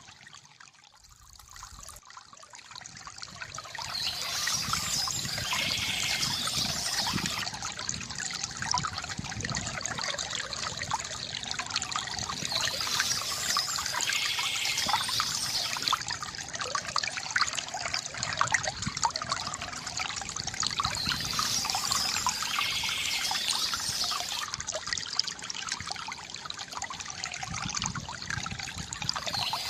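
Water trickling and splashing steadily from a bamboo fountain. It starts faint and swells back up over the first few seconds.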